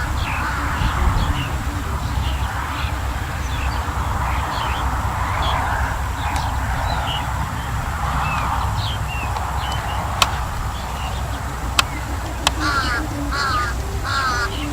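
Wind buffeting the microphone in a steady low rumble, with birds chirping throughout and a run of rapid warbling bird calls near the end. A few sharp clicks sound late on.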